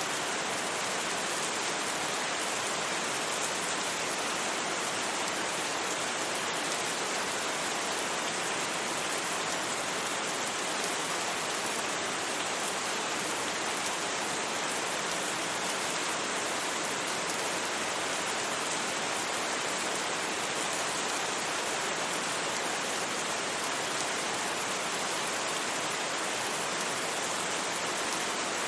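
Steady rain without thunder: an even, unbroken hiss with no single drops or knocks standing out.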